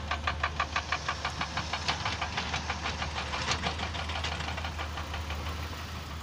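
Vehicle engine running, heard from inside a moving car: a steady low drone with a fast, even rattle of several ticks a second.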